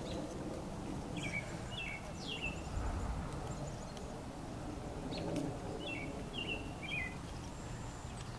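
A small bird singing twice, each time a short phrase of quick falling notes, about four seconds apart, over a steady low rumble of outdoor background noise.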